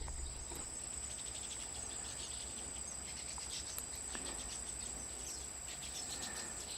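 Insects chirring: a steady high-pitched whine with rapid pulsed chirping over it, at a low level.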